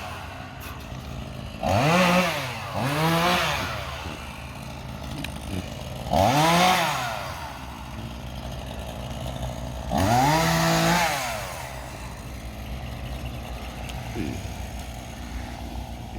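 Gasoline chainsaw idling and revved up about four times, each rev rising in pitch and falling back to idle after a second or two.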